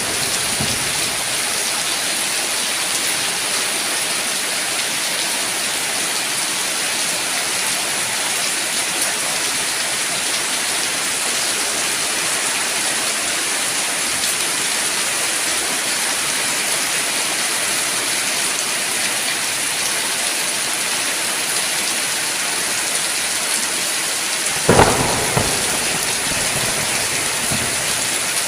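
Steady heavy rain falling, an even hiss throughout. Near the end a clap of thunder strikes sharply and rumbles for about two seconds.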